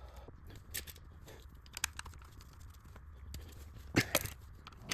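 Scattered sharp clicks and light knocks of hand tools and small metal parts being handled while the thermostat is swapped on the engine, the loudest pair about four seconds in, over a faint steady hum.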